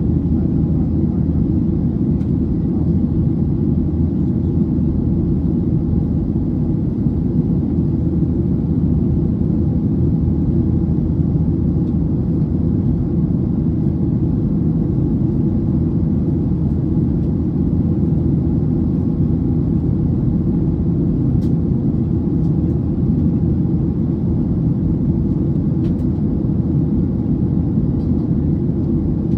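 Steady low rumble of an airliner cabin in flight, from the Boeing 737's jet engines and the airflow over the fuselage.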